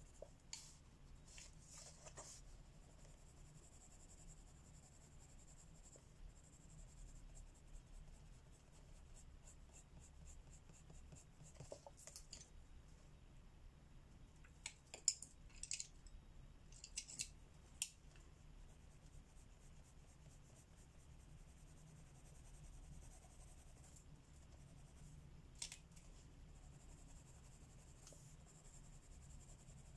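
Faint scratching of pencil strokes on paper, broken by a few short sharp clicks and scrapes that cluster about halfway through, the loudest there.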